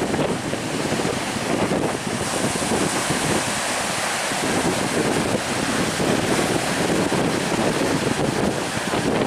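Strong wind buffeting the microphone, over the steady noise of the sea and waves.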